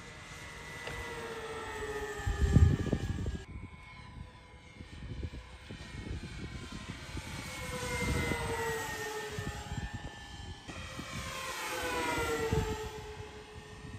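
Battery-powered RC model airplane's electric motor and propeller whining as it makes three passes, loudest at each pass with the pitch dropping as it goes by.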